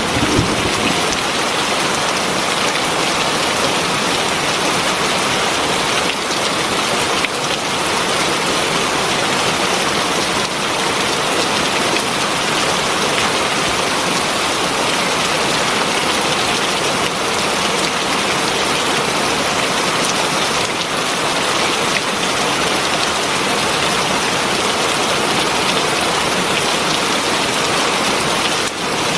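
Heavy rain falling steadily, a dense, even hiss of countless drops with no breaks or changes.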